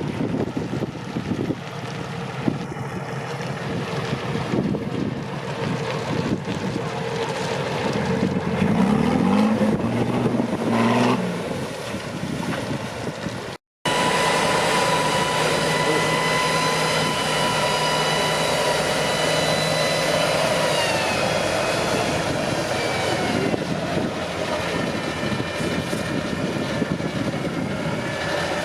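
Truck engine running under load on an off-road trial course, revving up and down once, with wind on the microphone. After a sudden cut, a truck engine runs steadily and then drops in pitch about two-thirds of the way through.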